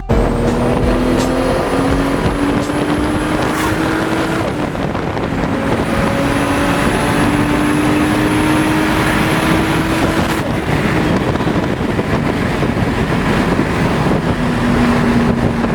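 Toyota Supra's straight-six, heavily modified to about 800 hp, accelerating through the gears, heard from the open-top car with wind rushing past. The engine note rises steadily, drops at a gear change about four and a half seconds in, rises again and changes gear once more about ten seconds in.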